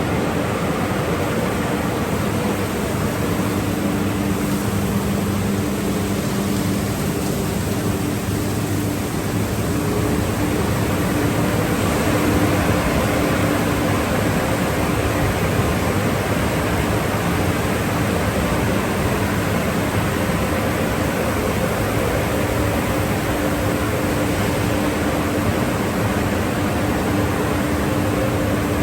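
Automatic conveyor car wash tunnel running: a steady rushing noise with a low hum from its motors.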